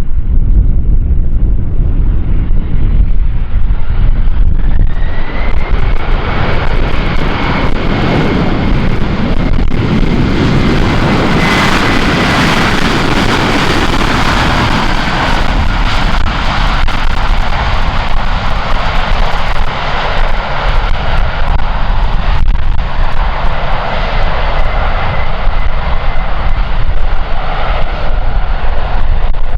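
Airliner's engines passing close by: the sound builds over several seconds with a steady high whine, peaks about halfway through, then slowly fades. Strong wind buffets the microphone throughout with a low rumble.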